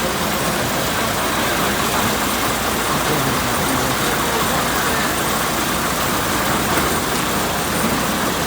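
Truck engine and road noise running steadily.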